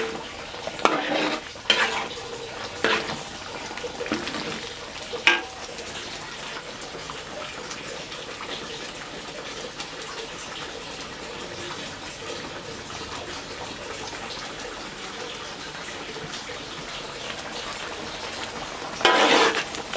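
Metal spatula scraping and clinking against a wok of chili paste (sambal) a few times, then a steady sizzle of the paste frying in oil. A loud burst of noise comes near the end.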